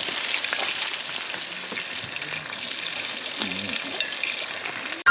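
Hamburger steak sizzling and spitting in a hot pan, a steady crackling hiss that cuts off suddenly near the end.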